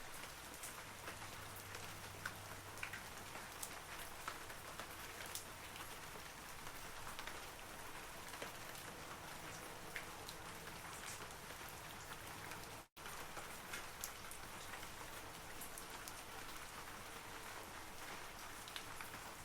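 Steady rain falling on forest trees, with many separate drops ticking through the patter. The sound cuts out for an instant about two-thirds of the way through.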